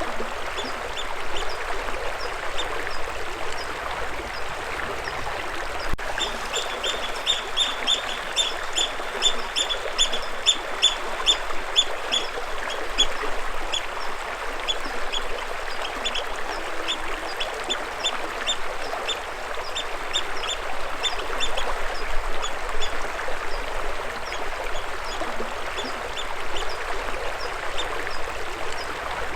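Water running steadily, with a bird chirping over it: a long fast series of short high notes, several a second, starting about six seconds in and thinning out after about twenty seconds, with a few scattered chirps before and after.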